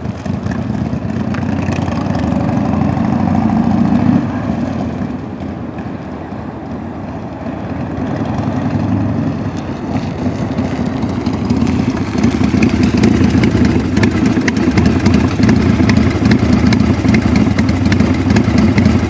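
1992 Harley-Davidson Dyna Daytona's air-cooled 1340 cc Evolution V-twin running. It swells over the first four seconds, drops back, then runs louder and steadily from about twelve seconds in.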